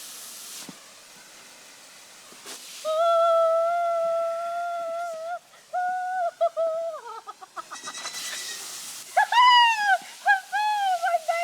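A woman's wordless high "ooo" vocalizing: one long held note about three seconds in, then shorter wavering notes, and swooping rising-and-falling notes near the end.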